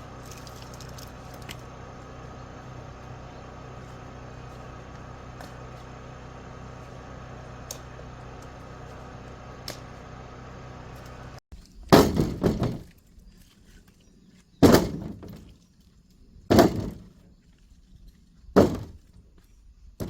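Axe splitting firewood: four heavy wooden cracks about two seconds apart in the second half, after a steady low hum.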